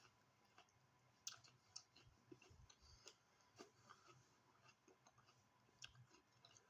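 Faint chewing of a raw apple: a handful of soft, scattered crunches and mouth clicks over near silence.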